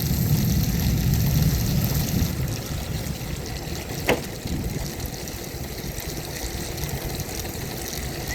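Steady wet noise of rain and wheels rolling over wet ground, with a low rumble that is stronger for the first two seconds or so. A single sharp click about four seconds in.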